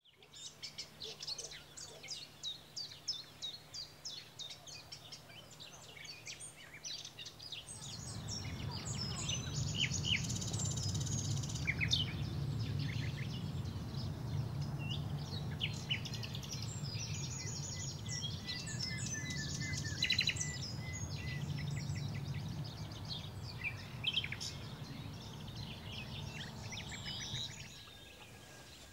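Wild birds singing and chirping, a dense chorus of short high calls. From about eight seconds in, a low steady rumble sits under the birdsong until near the end.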